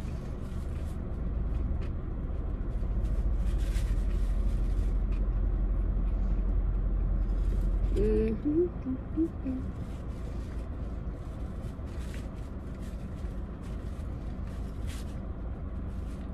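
Low steady rumble of an idling car heard inside its cabin. It is louder for the first half and drops about eight seconds in. At that point comes a short muffled 'mm' hum from a person with a mouthful of food, and there are a few faint clicks of chewing.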